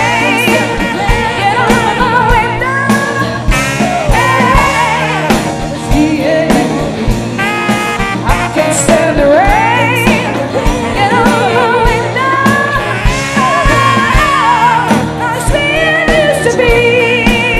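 Live band playing a soul song with a steady drum beat, while a singer sings drawn-out, wordless ad-libs with heavy vibrato.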